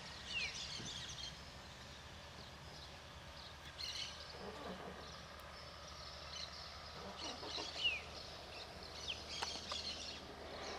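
Birds chirping and twittering, with several short, quick descending chirps, the clearest about eight seconds in, over faint steady background noise.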